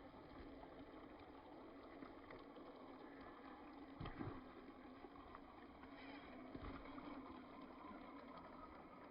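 Faint, steady watery noise in rainy conditions, with two low thumps about four and six and a half seconds in.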